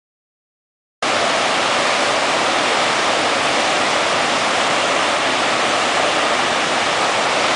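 Steady rushing of white water at a river wave, cutting in suddenly about a second in.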